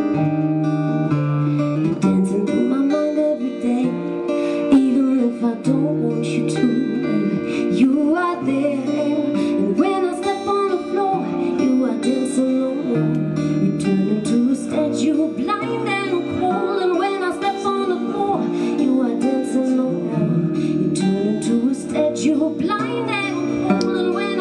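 A band's song: strummed acoustic guitar over a bass line, with a sung or played melody line above it.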